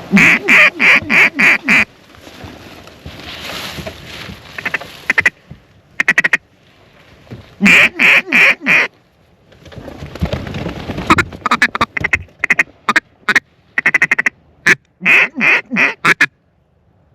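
Mallard duck call blown in loud, rapid strings of quacks: a run of about six at the start, a second string around eight seconds in, then a busy mix of single quacks and short strings toward the end, calling to incoming ducks.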